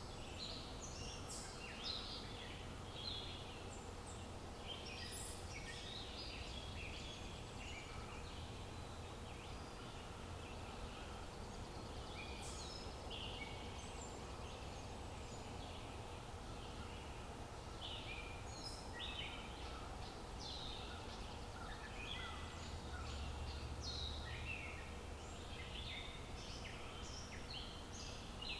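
Outdoor nature ambience of several birds chirping and singing, many short calls overlapping throughout, over a steady low rumble.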